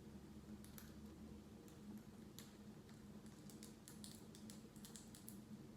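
Faint, irregular clicks and crunches of parrots biting and chewing a crunchy freeze-dried treat in their beaks, growing busier in the second half, over a low steady room hum.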